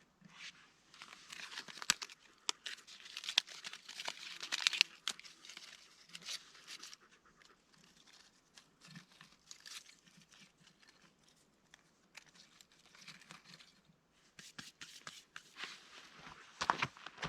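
Irregular crinkling and rustling in two spells, with a quieter gap between them.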